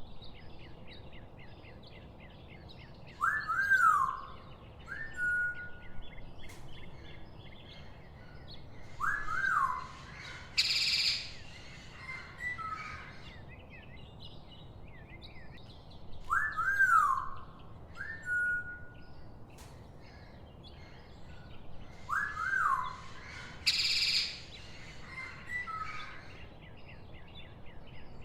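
Birds calling: a clear whistled call that rises and falls, given twice in quick succession, followed by a short flat whistle and a loud harsh burst, over steady faint chirping of smaller birds. The same sequence repeats about every 13 seconds.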